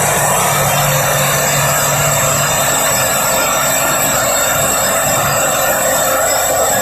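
Simba S7D long-hole drill rig drilling rock: its hydraulic top-hammer rock drill running loud and steady, driving a 64 mm bit on T38 extension rods.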